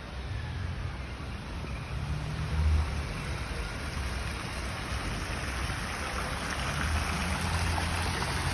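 Fountain water splashing in a steady rush that grows louder toward the end, over a low rumble.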